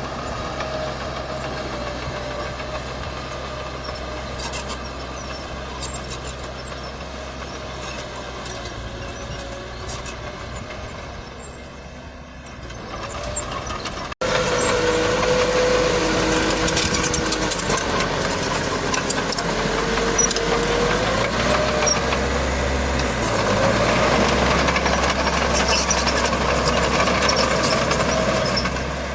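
Heavy diesel earthmoving machinery running steadily. About halfway through, the sound cuts off abruptly and resumes louder, with the engine speed rising and falling.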